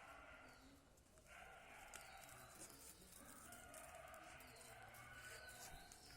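Near silence, with faint drawn-out bird calls in the distance.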